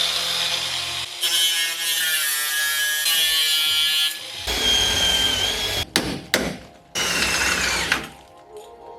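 A hand-held power tool whining on the car's rusted bodywork, its pitch rising and falling in several short clips with abrupt cuts between them.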